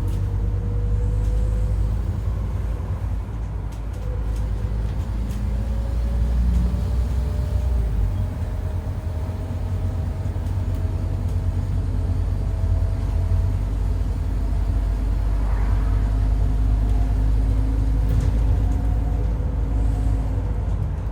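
Scania N230UD double-decker bus with its 9.3-litre Scania DC9 engine running under a heavy low rumble, with a thin howling whine that slowly rises in pitch. The uploader takes the howl for a dodgy bearing or worn-out tyres.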